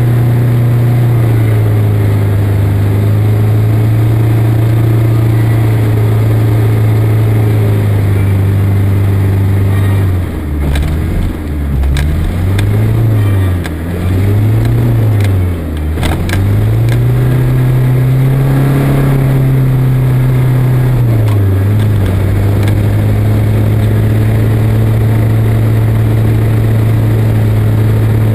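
Land Rover Defender 110 engine running steadily; about ten seconds in the revs drop and rise several times in quick succession, then climb once more and hold for a few seconds before falling back to the same steady running.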